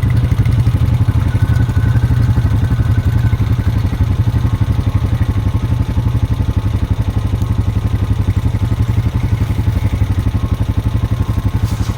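ATV engine running steadily at low speed close by, an even, rapidly pulsing low drone that neither revs up nor dies down.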